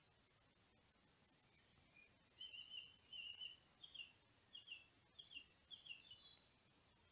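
A songbird singing: a run of chirps from about two seconds in, then five or so short falling notes, over an otherwise near-silent background.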